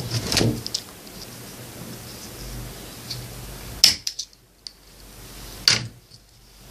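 Handling noise as small plastic parts are worked by hand, then two sharp clicks about two seconds apart.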